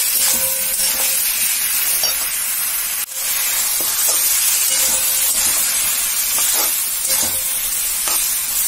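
Kakrol (spiny gourd), potato and ground masala paste sizzling in hot oil in a kadai while a spatula stirs them. This is the masala-frying stage before water goes in. The hiss breaks off briefly about three seconds in.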